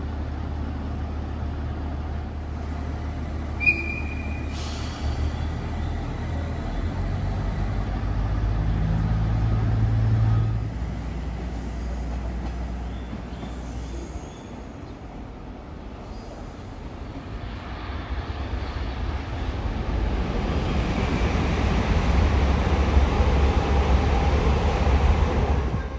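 Train noise: a steady low rumble, with a brief high-pitched squeal about four seconds in. The noise builds over the last eight seconds as a train comes close, then cuts off.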